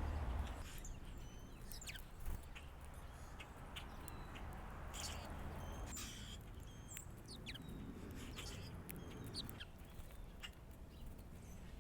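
Small backyard birds giving short, scattered chirps and chip notes over a steady low background rumble.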